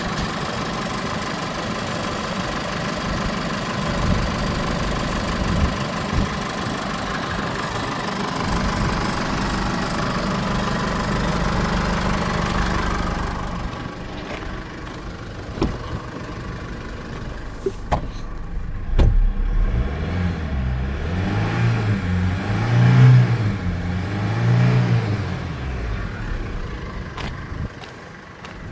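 Holden Colorado's LWN 2.8-litre Duramax four-cylinder turbo-diesel running, idling steadily at first. About halfway through the sound dulls, a few sharp clicks come, and then the engine is revved up and down several times.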